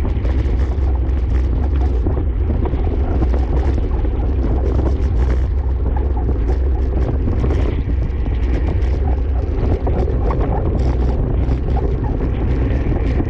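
Wind buffeting the microphone of a camera riding on a bicycle in a race: a steady, loud low rumble with hiss above it and small ticks.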